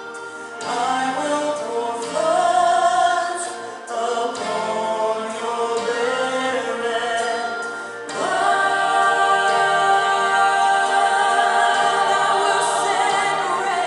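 A group of voices singing a worship song together, with a long chord held for about five seconds in the second half.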